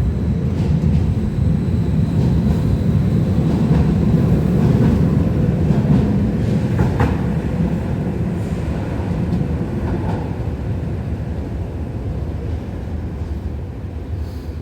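New Class 555 Tyne and Wear Metro electric train pulling out of the station, its rumble building to a peak about five seconds in and then slowly fading as it leaves.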